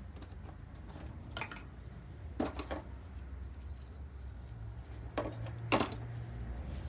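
A few light knocks and clicks, four or five spread out singly, over a steady low hum.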